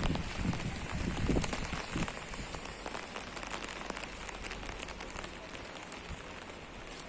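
Rain falling and pattering on surfaces, a steady hiss with scattered sharper drops and a few dull thuds in the first couple of seconds, easing slightly toward the end.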